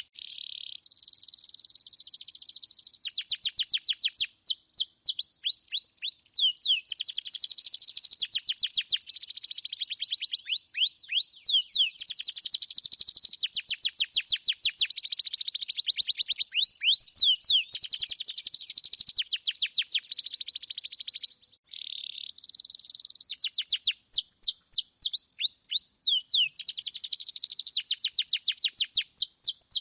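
Canary singing in long, clear rolling trills of rapidly repeated notes, mixed with fast falling whistles, with a brief pause about two-thirds of the way through.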